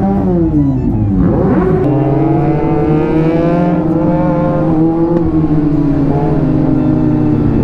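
Kawasaki Z900's inline-four engine running under way. Its revs drop, climb sharply about a second and a half in, then hold at a fairly even speed that wavers slightly.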